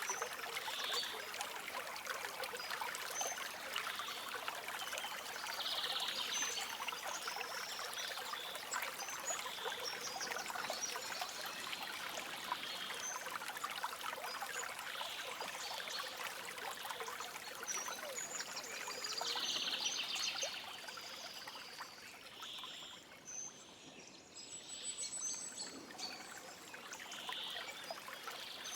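Shallow stream running and trickling over stones, with small birds chirping briefly now and then. The water drops quieter for a few seconds near the end.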